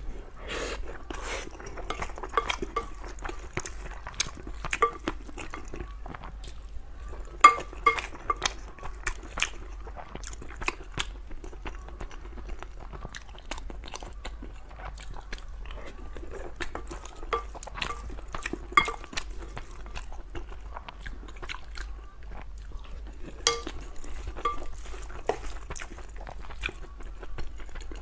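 A person chewing and biting mouthfuls of rice and braised pork belly, with irregular sharp clicks of a utensil against the bowl.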